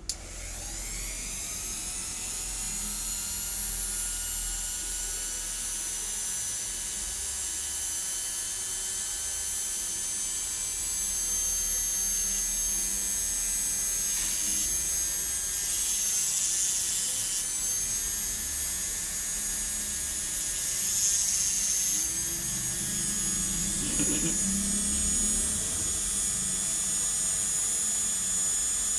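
Small electric hand grinder switched on, its whine climbing quickly as the motor spins up, then running as a steady high whine over a low hum. The tone turns rougher a few times midway and near the end, as the grinding load changes on the lens.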